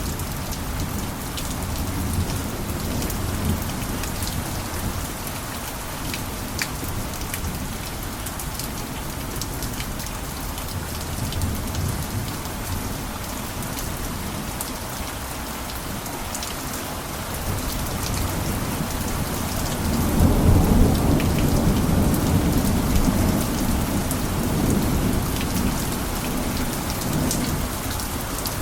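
Steady heavy rain on a roof, with scattered sharp drop ticks. A low rumble of thunder swells about twenty seconds in and rolls on for several seconds.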